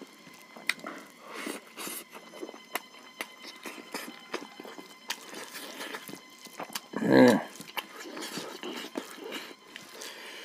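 Close-miked chewing, with wet clicks and smacks of a person eating rice by hand. About seven seconds in there is one short, louder voiced sound from the eater's throat.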